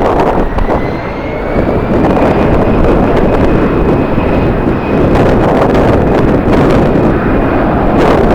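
Jet airliner engines with a thin whine that rises over the first few seconds and then holds steady, under loud wind buffeting the microphone.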